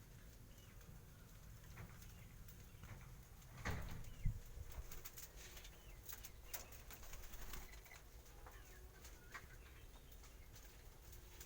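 Faint bird sounds from a breeding cage: short calls, small clicks and wing rustling, with a louder knock and rustle about four seconds in.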